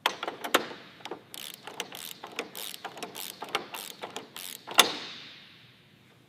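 A quick, irregular run of mechanical clicks and clanks. One loud, sharp clank about five seconds in rings and slowly fades.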